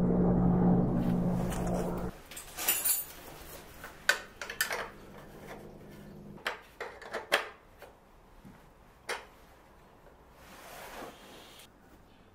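Music that cuts off sharply about two seconds in, followed by a scattered series of light clacks and knocks, like objects or tools being handled.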